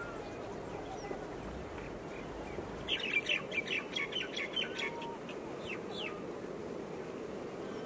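A bird calling: about three seconds in, a quick run of short, high chirps for about two seconds, then a couple of falling notes, over a steady background of outdoor noise.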